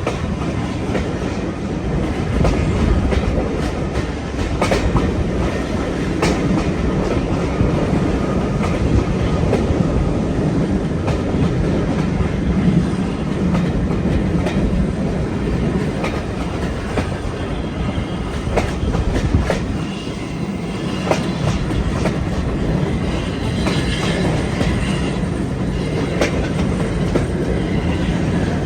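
Passenger train running along the track: a steady rumble with the wheels clicking over rail joints.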